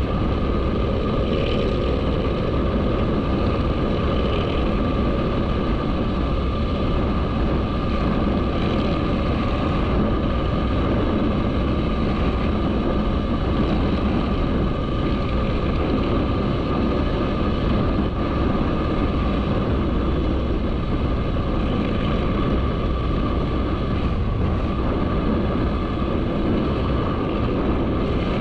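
Motorcycle being ridden at a steady pace: an even running and road noise that holds level without change.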